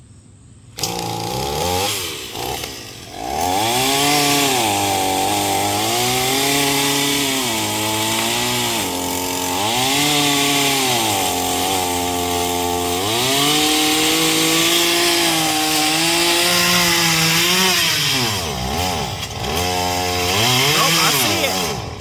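Chainsaw cutting into a pecan tree trunk, starting about a second in. Its pitch sags and recovers again and again as the chain bites into the wood and frees up.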